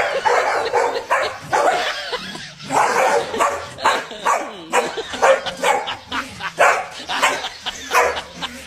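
A dog barking over and over in a rapid series of short barks.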